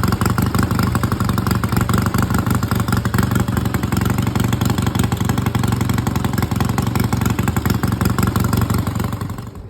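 1965 Triumph Bonneville T120C's 650 cc parallel-twin engine running steadily, a fast even beat of firing pulses, cutting off near the end.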